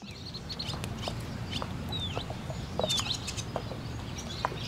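Birds calling: scattered short chirps and clicks with a few swooping whistles, over a low steady background rumble.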